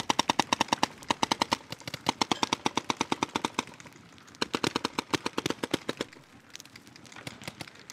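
Paintball markers firing rapidly at about ten shots a second. There is a long string of shots, a brief pause, a second string, then scattered single shots toward the end.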